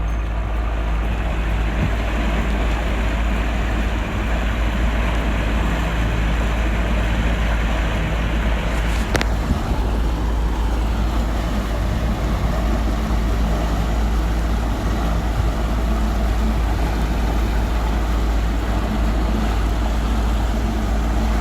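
Motorboat engine running steadily while the boat is under way, with water and wind noise around it. A brief sharp tick comes about nine seconds in.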